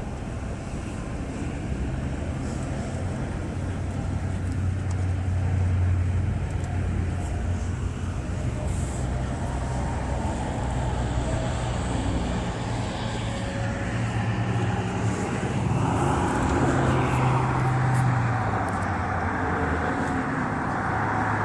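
Pickup truck driving on the road, heard from inside the cab: a steady engine hum with tyre and road noise. The engine note shifts, and the road noise grows louder about three-quarters of the way through.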